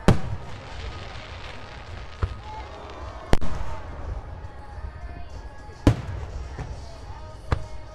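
Aerial fireworks shells bursting in a display: five booms, the three loudest at the start, about 3 seconds in and about 6 seconds in, with two lighter bangs between. The first two big bursts trail off in a crackling hiss.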